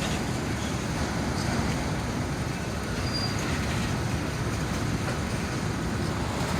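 Freight train cars rolling steadily past at a grade crossing: a steady rumble of wheels on rail with faint clicks, and a brief high squeal about three seconds in.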